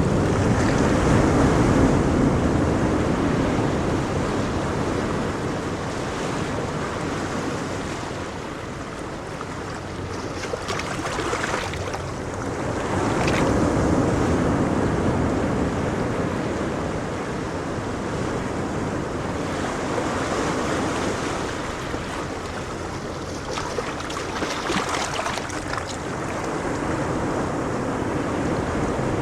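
Sea waves breaking and washing onto a beach, a continuous rush that swells and fades in long surges, loudest near the start and again about halfway through.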